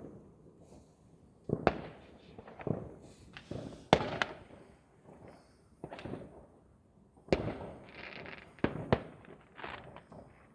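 New Year's Eve fireworks and firecrackers going off at irregular intervals: about a dozen sharp, echoing bangs, the loudest about four seconds in, with a short burst of crackling near eight seconds.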